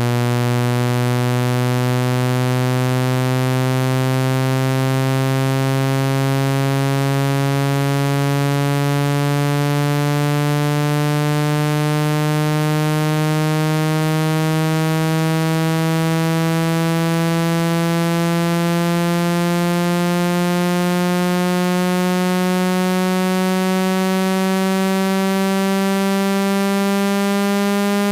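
Phone speaker-cleaning tone: a low electronic buzz, rich in overtones, slowly and steadily rising in pitch throughout, played loud to vibrate water droplets and dust out of a phone speaker.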